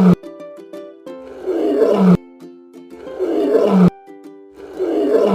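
A lion roaring again and again, about three roars a second or so long, each ending on a low note. Light background music plays under it.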